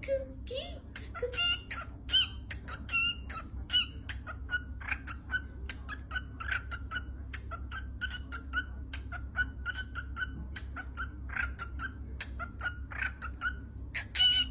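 A pet bird chirping over and over in short, high calls, about two or three a second, over a low steady hum.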